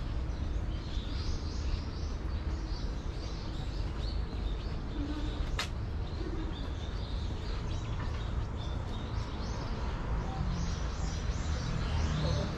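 Small birds chirping repeatedly in the trees over a steady low background rumble, with a single sharp click about halfway through.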